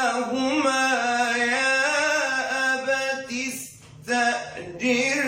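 A man chanting a Quran recitation in melodic tajweed style, drawing out long held notes that waver in pitch. The voice breaks off briefly about four seconds in, then starts a new phrase.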